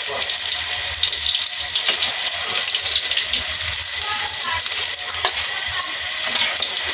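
Potato kababs deep-frying in hot oil in a karahi: a steady crackling sizzle with many fine pops, as the patties near the end of frying.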